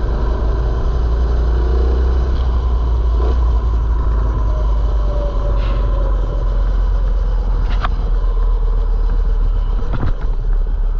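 Mini bike's small gas engine running as it rides along, under a heavy, steady low rumble. A few sharp clicks come through over the run.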